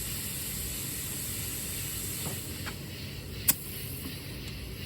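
Steady hiss of compressed air from an air hose over a low steady rumble, with one sharp click about three and a half seconds in.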